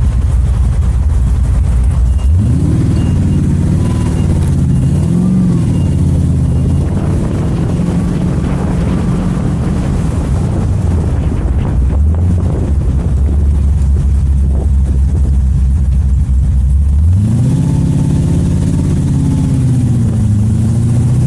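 AK Cobra replica's LS7 7.0-litre V8 under way. The engine note climbs sharply under acceleration about two seconds in, wavers, settles to a steady cruise, and climbs sharply again past the middle.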